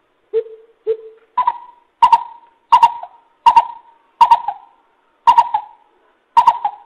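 Coucal (bubut) giving a series of deep hooting notes: two lower hoots, then seven higher hoots at a slow, even pace, each starting sharply.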